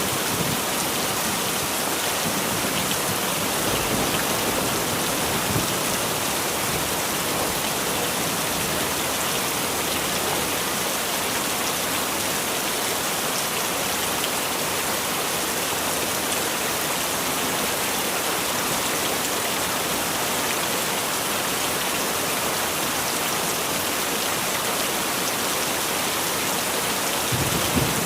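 Steady heavy rain, an even, unbroken hiss of falling drops.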